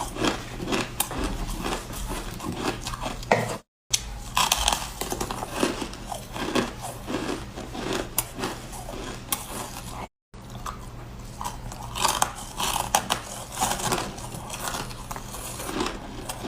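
Ice being bitten and chewed close to the microphone: rapid irregular crunches and crackles, the soft crunchy ice of ice-eating ASMR. The sound drops to silence twice for a moment, at cuts between clips.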